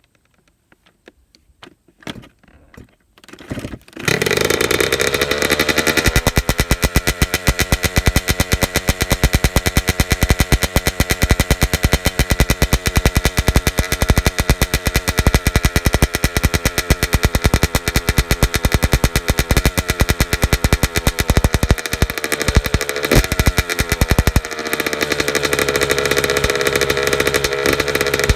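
Honda CR80R 80cc two-stroke dirt bike engine starting from cold. After a few faint knocks it catches about four seconds in, runs fast for a moment, then settles into a steady idle with a few brief changes a little past twenty seconds.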